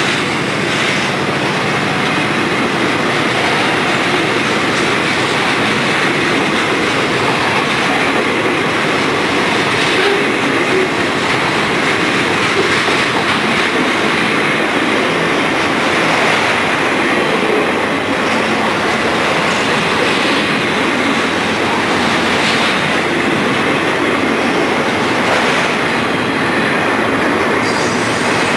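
Freight train cars, boxcars then enclosed autoracks, rolling past on steel wheels in a steady, even rumble, with occasional clicks as wheels pass over rail joints.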